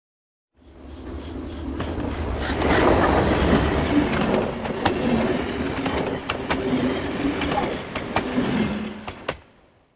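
A train running on rails, with a rumble and scattered sharp clicks of wheels over the track. It builds up over the first couple of seconds and stops about nine and a half seconds in.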